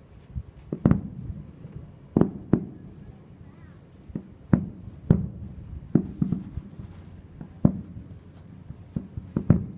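Aerial firework shells bursting: about ten sharp booms at irregular intervals, some in quick pairs, each trailing off in a short rumble.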